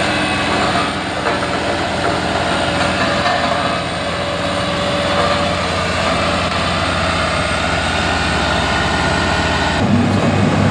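Heavy vehicle engines running steadily. Near the end the sound changes suddenly to a stronger, lower engine rumble.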